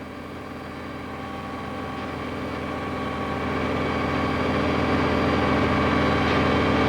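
Heavy-duty truck engine running at a steady, unchanging pitch, growing gradually louder.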